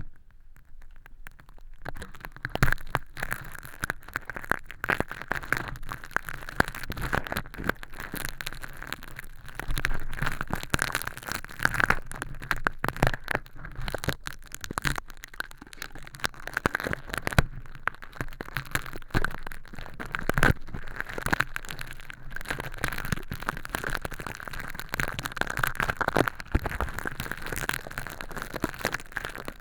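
Close-miked crackling and crinkling of crushed hologram film used as fake crispy earwax, picked and peeled with tweezers inside a transparent silicone ear tube: a dense, irregular run of small clicks that starts after a quieter first second or so.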